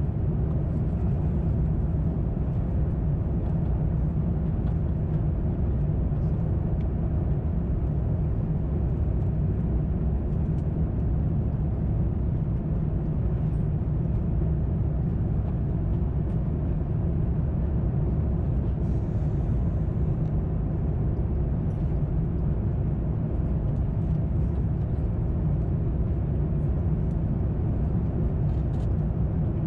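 Steady low rumble of engine and airflow noise inside the cabin of an Airbus A350-900 in flight, with its Rolls-Royce Trent XWB engines running on approach.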